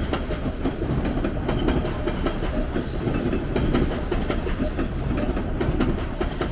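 A TTC subway train running on the rails, a steady rumble with a quick stream of wheel clicks.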